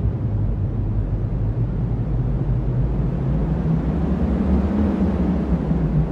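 Cyclone winds blowing steadily as a deep, low rumble with little high hiss.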